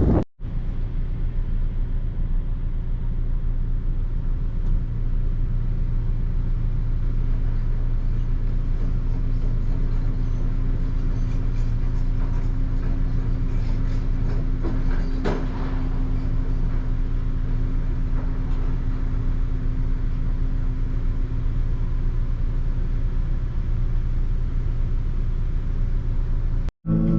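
Steady vehicle engine and road rumble while driving, a low even hum.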